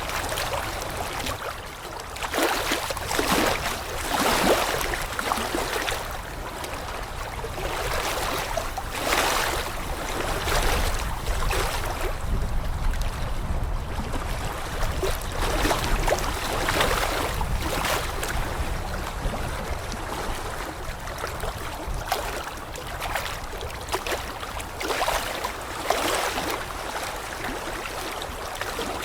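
Rushing water, a steady wash that swells and falls in irregular surges every second or two.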